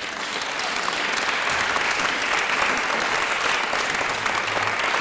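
Audience applauding: a dense, steady patter of many hands clapping that swells up at the start and holds.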